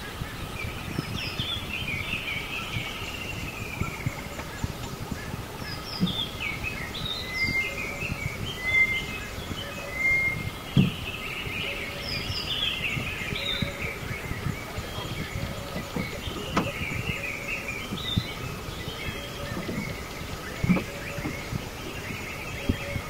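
Several small birds chirping and twittering in quick, scattered phrases over a faint steady hum, with a few dull knocks.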